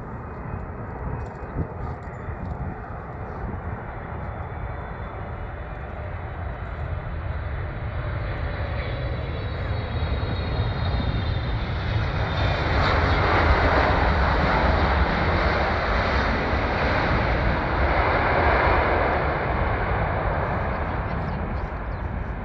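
Jet engines of a Boeing 777-300 on its landing approach, a steady rumble that grows louder as the aircraft comes closer, peaks about two thirds of the way through, then eases slightly. A faint high engine whine is heard in the first half.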